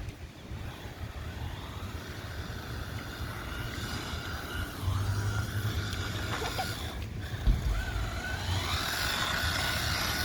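Brushed electric motor and drivetrain of a 1/16-scale SG-1603 RC drift truck whining, the pitch rising and falling with the throttle as it drifts on slick tyres, over a low rumble. A single sharp knock comes about seven and a half seconds in.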